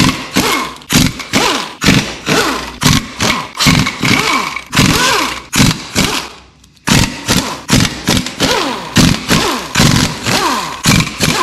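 A power tool driving the main cap side bolts of an LS engine block, triggered in quick short bursts, two or three a second. Each burst falls in pitch as the tool spins down, with a brief pause a little past halfway.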